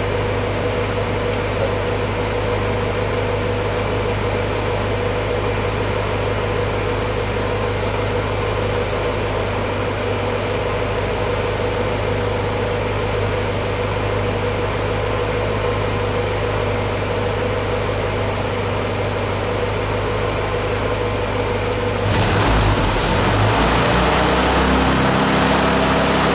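1953 Willys CJ3A Jeep's four-cylinder engine idling steadily while it warms up after a cold start, its thermostat just opened. It grows somewhat louder and rougher near the end.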